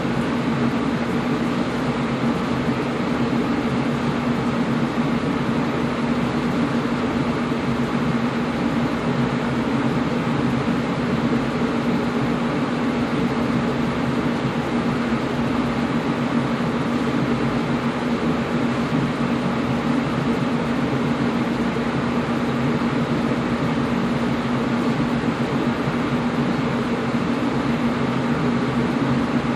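Air conditioner running steadily: an even rush of blown air with a constant low hum.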